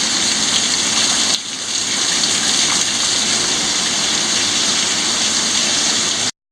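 Heavy rain falling in a steady hiss that dips briefly about a second and a half in. The sound cuts out abruptly near the end.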